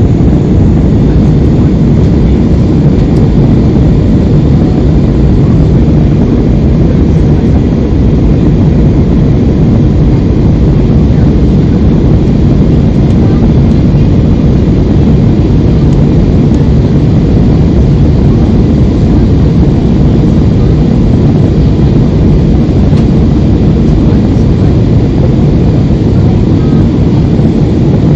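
Steady, loud engine and airflow noise of a jet airliner heard from inside the cabin, even throughout with no change in pitch.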